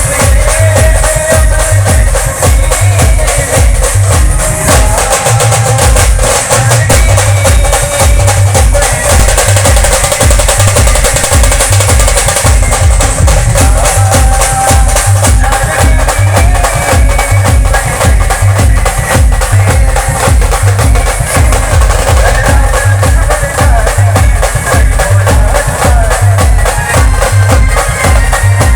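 A band playing loud, drum-heavy music: a steady, fast beat of bass-drum hits under clashing cymbals, with held melody lines above.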